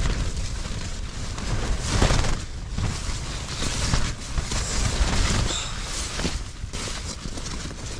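Strong gusty wind buffeting the microphone, a heavy rumble that rises and falls, with rustling and flapping of tent fabric in the gusts.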